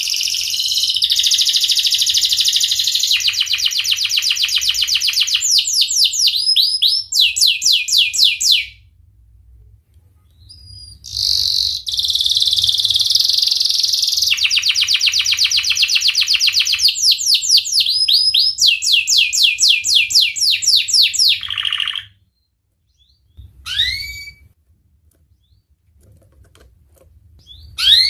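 Domestic canary singing: two long bouts of high, rapid rolling trills and fast rising sweeps with a short pause between them, then two brief chirps near the end.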